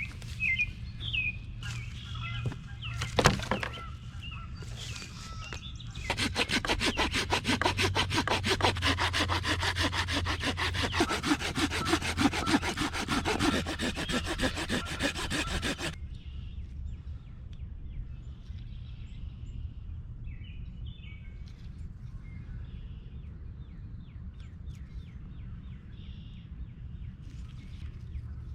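Hand saw cutting wood in quick, steady back-and-forth strokes for about ten seconds, then stopping. Birds chirp faintly before and after, and there is a single sharp knock a few seconds in.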